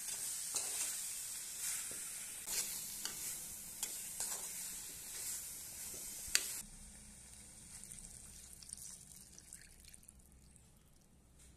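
Spiced yellow cucumber pieces, onions and curry leaves sizzling as they fry in a clay pot, stirred with a wooden spoon that scrapes and knocks against the pot. About two-thirds through, the sizzle cuts off abruptly after one sharp knock, leaving much quieter, faint ticks.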